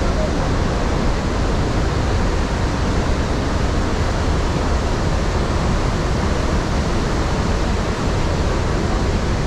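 Iguaçu Falls: a loud, steady rush of falling water.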